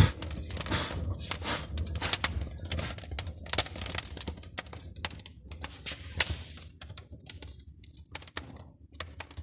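A test fire of paper and kindling in a newly built brick fireplace's open firebox, crackling with many sharp pops and snaps, the sharpest right at the start.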